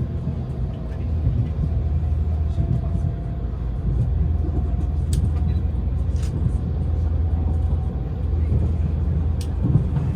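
Cabin interior of a JR Central HC85 series hybrid limited express train running under power: a steady low rumble with a faint whine that rises slowly in pitch as the train gathers speed, and three sharp clicks.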